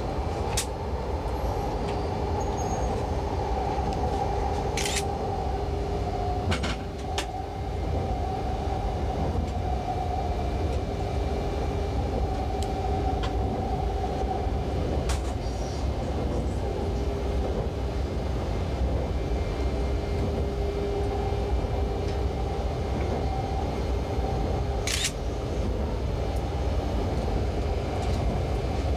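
200 Series Shinkansen running on a test run, heard inside the driver's cab: a steady low rumble with a two-note electric hum from the drive. A few sharp clicks are scattered through it.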